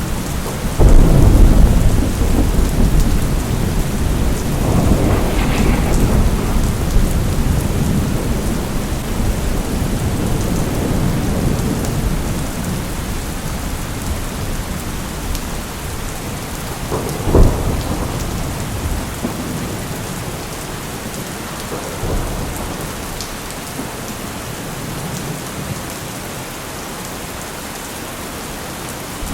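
Steady rain with thunder. A loud low rumble of thunder starts about a second in and rolls on for several seconds. A short, sharp thunderclap comes a little past halfway, and the last several seconds are mostly the rain.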